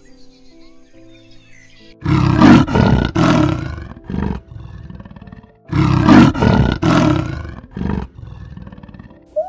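Leopard roaring: two loud bouts of rough, pulsing calls about four seconds apart, each followed by one short grunt, over soft background music that plays alone for the first two seconds.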